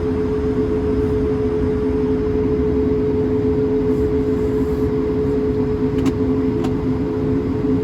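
Cabin noise inside an Airbus A220-300 airliner: the steady drone of its Pratt & Whitney PW1500G geared turbofans and the rush of air, with two held tones over a low rumble. Two faint ticks are heard a little past halfway.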